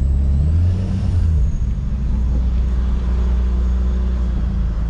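Vortech-supercharged Nissan G35's V6 engine and aftermarket exhaust running as the car drives, a steady low drone.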